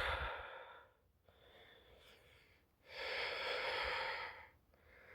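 A person's breath close to the microphone, one airy hiss about a second and a half long, about three seconds in.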